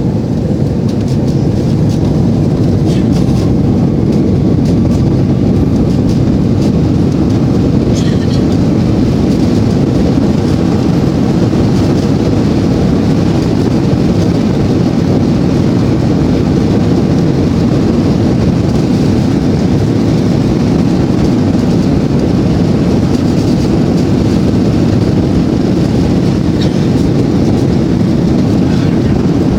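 Airbus A330's twin jet engines at high thrust for takeoff: a loud, steady, deep roar.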